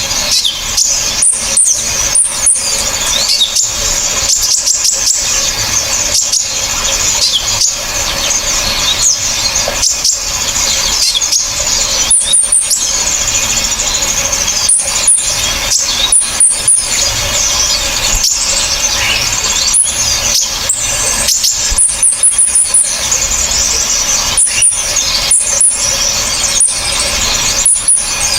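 Dense, shrill, high-pitched chirping and trilling from a layered recording of small birds' calls: a 'masteran' mix of kolibri ninja sunbird, srindit hanging parrot, kinoi and woodpecker calls. It runs on loud and fast with only brief breaks.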